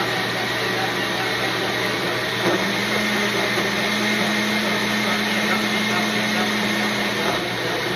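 Countertop blender running steadily, blending a fruit smoothie. A steady hum comes in about two and a half seconds in and drops away near the end.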